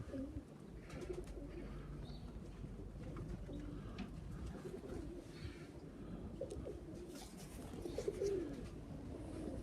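Pigeons in a loft cooing, several low coos overlapping and repeating, more of them near the end.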